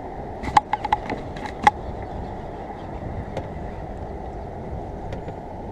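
Steady rushing wind-and-water noise on an outdoor action-camera microphone. Over it comes a quick run of sharp clicks and knocks, starting about half a second in, and one more click a little after three seconds.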